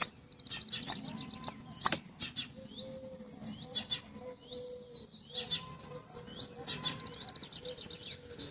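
Birds singing, with quick chirps and trills and the low repeated cooing of a dove, while a knife whittling wood makes short sharp scraping strokes every second or so.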